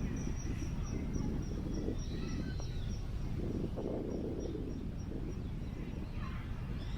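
Wind buffeting the microphone as a steady low rumble, with birds calling over it: one bird repeats a short high chirp about four times a second through the first five seconds, and other calls come and go.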